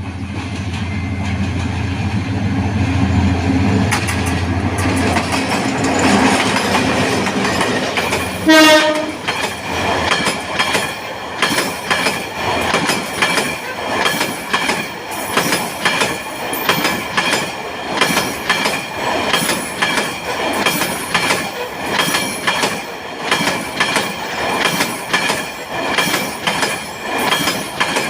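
Bangladeshi diesel train passing close by. The locomotive's engine rumble builds, a short horn blast sounds about eight seconds in, and then the coaches' wheels clatter rhythmically over the rail joints about once a second.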